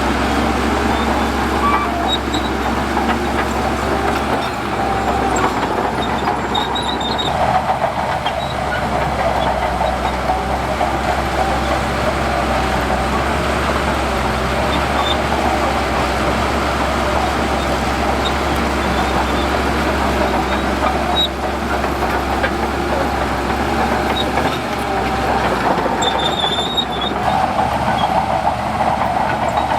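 Heavy diesel earthmoving machinery running steadily under load, with a continuous engine rumble and clanking, as from a bulldozer or large dump truck working sand.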